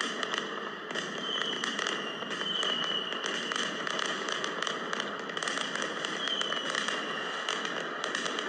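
Continuous dense crackling with many small clicks, and faint high-pitched squeaks about three times.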